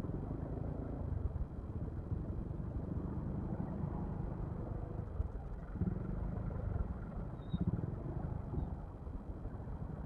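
Steady low rumble of a Yamaha XMAX scooter's engine and road noise while riding.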